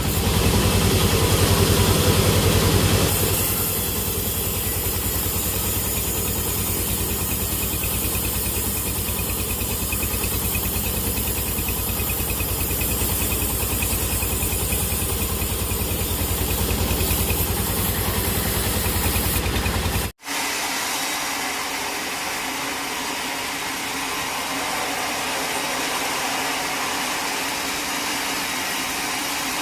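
Sawmill machinery running steadily with an engine-like hum, a little louder for the first few seconds. About two-thirds of the way through it cuts off abruptly and a steady, hissing machine noise takes over.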